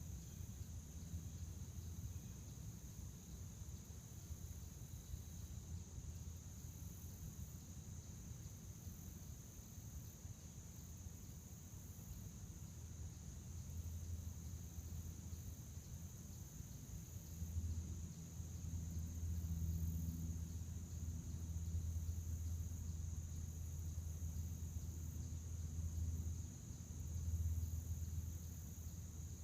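Crickets chirping in a steady, high-pitched chorus. A low rumble runs underneath and grows louder in the second half.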